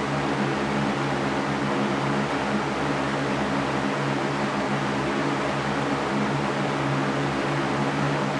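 Electric fan running steadily: an even whooshing noise with a low motor hum beneath it.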